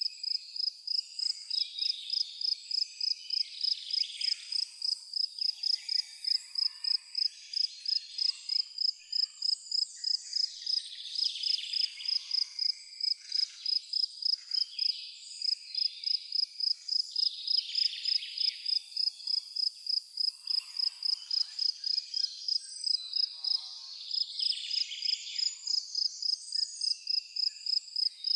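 A cricket chirping steadily in an even rhythm, about three chirps a second, with birds singing and calling off and on around it.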